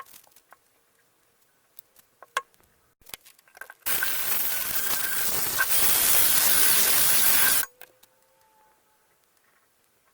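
A spray nozzle hissing in one continuous burst of nearly four seconds, a step louder about halfway through, then cut off sharply. A few light taps and clicks come before it.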